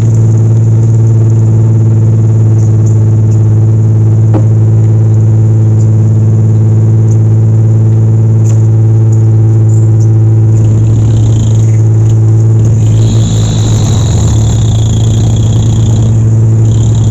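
Dump truck engine running with a loud, steady low drone; the note grows uneven in the last few seconds.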